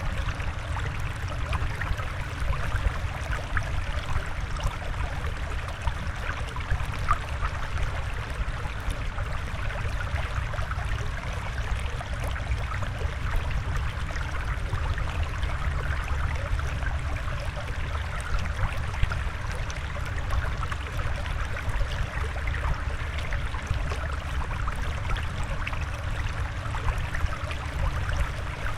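Water flowing and trickling steadily, with a low rumble underneath and fine bubbling detail.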